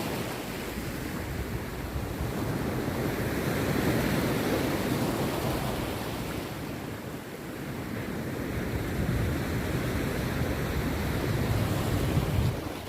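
Rough sea surf breaking on a beach: a continuous wash of waves that swells about four seconds in, eases, then builds again near the end.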